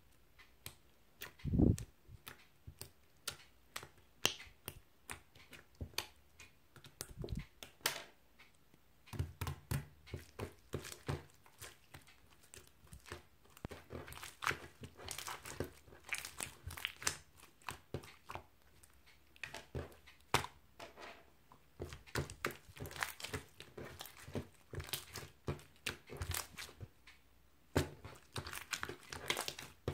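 Close handling sounds: crinkling and tearing of paper or packaging, with many small irregular taps and clicks, and a couple of duller thumps, the loudest about a second and a half in.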